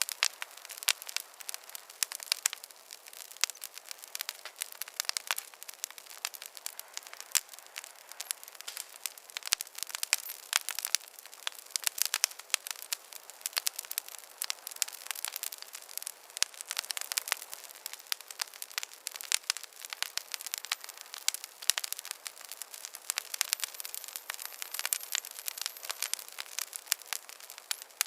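Wood fire crackling in a fireplace: a dense, irregular stream of sharp pops and snaps over a soft hiss.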